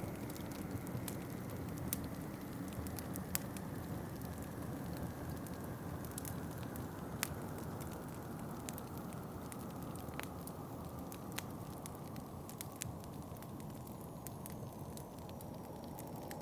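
Wood fire in a fireplace crackling, with scattered sharp pops, over a steady low rush of wind that slowly grows duller.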